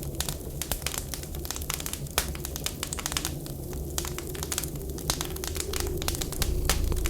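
Wood fire crackling with frequent sharp pops over a steady whistling winter wind. A low rumble swells near the end.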